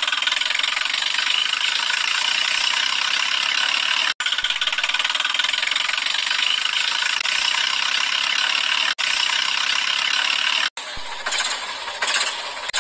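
A vehicle engine running steadily, mostly high-pitched with little low rumble, in stretches spliced together with abrupt cuts. About two seconds before the end it gives way to music with a regular beat.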